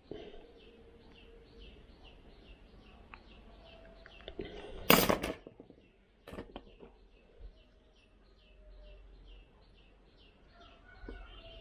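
A bird chirping over and over, short calls about two to three a second. About five seconds in comes a loud knock of a hand tool on the wooden workbench, followed by a few light clicks of wire and tools.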